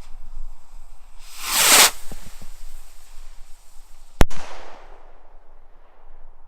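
Yorgi Diablo firework rocket launching with a short whoosh about a second in, then bursting with one sharp bang about three seconds later that echoes briefly as it fades.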